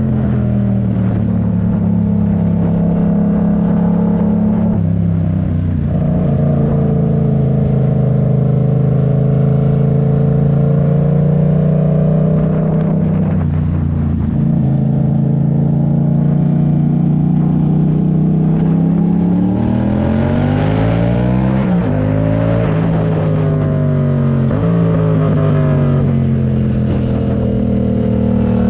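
Yamaha MT-07's 689 cc parallel-twin engine running under way at a fairly steady pitch for most of the stretch. About two-thirds through, it revs up in pitch, drops at a gear change and climbs again.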